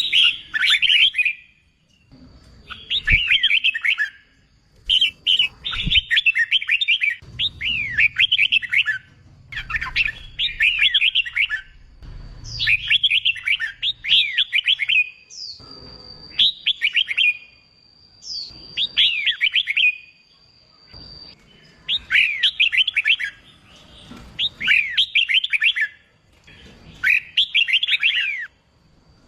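Red-whiskered bulbul singing, repeating short, quick warbled phrases about every two seconds with brief pauses between them. A thin, high, steady whistle runs under several phrases around the middle.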